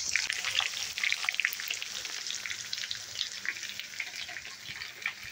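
Breaded chicken patties frying in a pan: a steady sizzle of hot oil with many small crackling pops.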